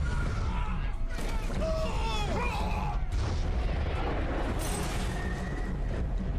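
Film action-scene sound mix: a heavy continuous low rumble with creaking, gliding metallic tones and booms, under music.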